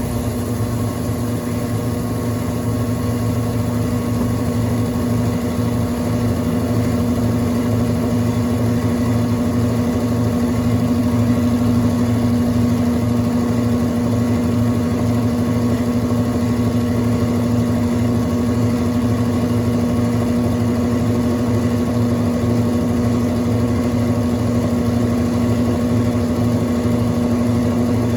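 Brastemp Clean 5 kg washing machine (BWR22A) running with a steady motor hum and mechanical noise, rising slightly over the first few seconds and then holding even.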